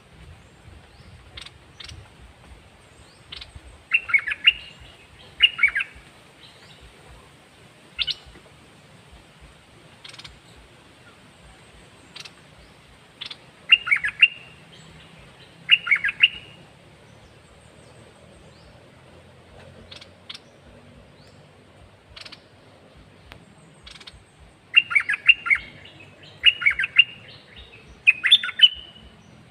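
Caged red-whiskered bulbul singing short, bright warbled phrases of about half a second each: two pairs and then a run of three near the end, with scattered short chirps between.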